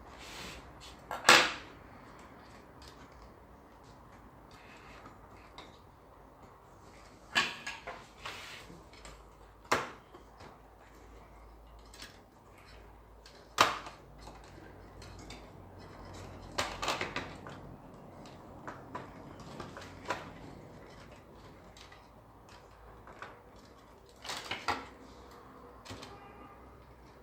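Scattered clicks and knocks of small hard objects being handled, about six separate strikes with the loudest about a second in.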